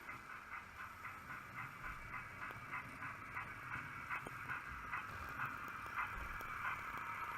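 DCC sound decoder in a 00 gauge Bachmann BR Standard class 4 tank locomotive playing steam exhaust chuffs through its small speaker, about three a second and growing steadily louder. A low rumble comes and goes underneath.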